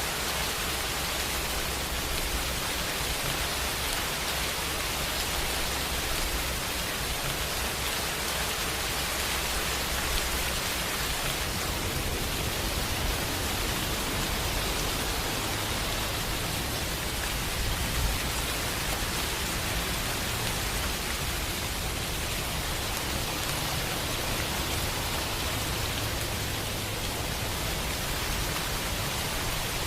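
Steady rain falling, an even hiss without pauses, over a low rumble that swells and fades.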